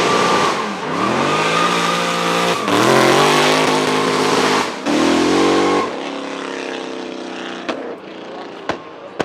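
A drift car's engine revving hard in repeated surges, its pitch climbing and dropping, with the tyres squealing under it. The noise drops away after about six seconds, leaving a quieter engine note broken by a few sharp cracks near the end.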